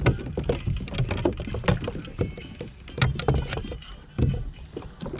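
Irregular knocks and bumps on a fishing kayak's hull and gear, coming in uneven clusters, over a steady low rumble of water and wind.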